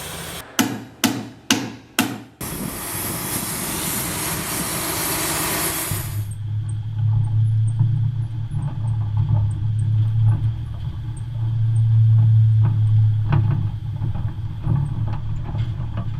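Four sharp knocks about half a second apart, then a few seconds of hiss that cuts off suddenly, then an engine running steadily with a low hum.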